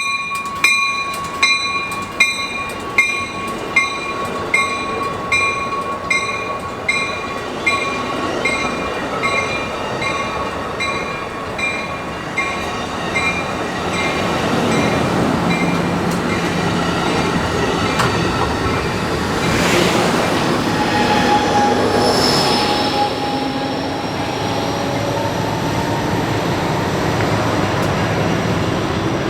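A railroad grade-crossing bell dings about one and a half times a second and fades out after about thirteen seconds, while the rumble of a passing train builds. In the second half, train wheels squeal in drawn-out high tones over the rumble.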